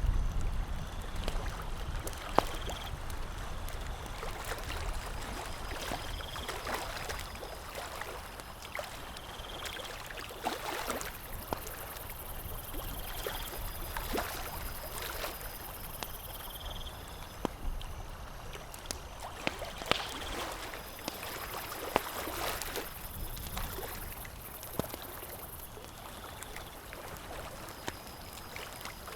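Campfire crackling, with sharp scattered pops, over the steady lapping and gurgling of lake water.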